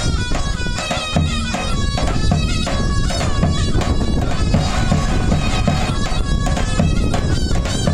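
Traditional Turkish bar dance music: a loud, shrill double-reed wind instrument playing a fast, ornamented melody over a beating bass drum.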